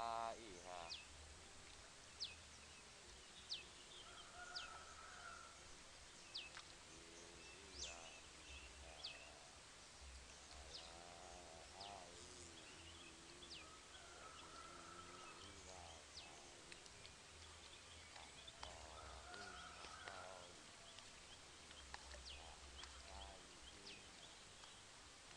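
Faint open-air ambience with scattered short, high bird chirps and a few faint, distant wavering calls.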